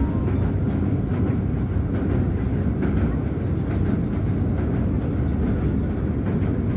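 A train in motion: a steady, even rumble of the running train.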